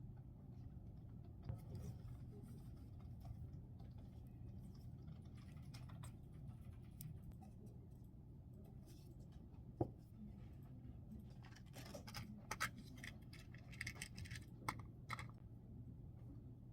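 Knitting needles clicking softly and yarn being handled over a low steady room hum, with scattered light clicks that become busier about eleven seconds in and one sharper click near the middle.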